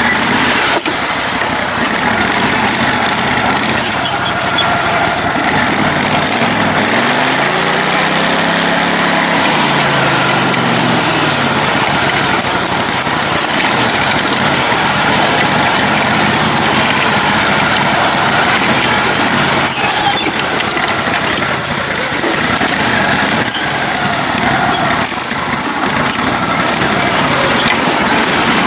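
Lifted, modified riding mower's engine running under way, with one clear rise and fall in engine speed about eight to ten seconds in.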